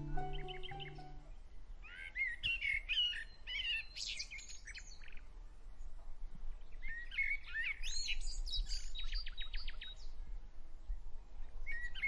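Songbirds chirping and calling in two spells of short, sliding high notes, the second with a quick run of repeated notes. A few notes of background music end about a second in.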